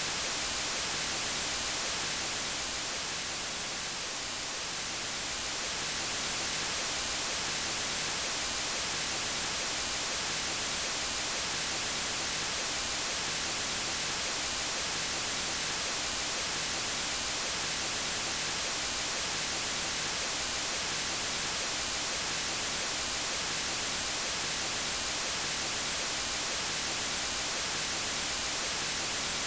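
Steady white noise, an even hiss strongest in the high frequencies, dipping slightly in level for a moment about four seconds in.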